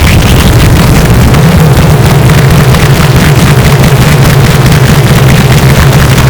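Heavily distorted, clipped effects-processed audio: a loud, steady low drone under a harsh hiss, like an engine.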